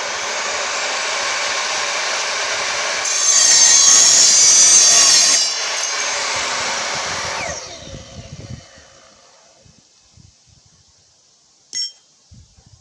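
Evolution R255SMS multi-material miter saw running and cutting through steel tube, loudest for a couple of seconds in the middle of the cut. Then the motor is switched off and the blade spins down with a falling whine. A single short click comes near the end.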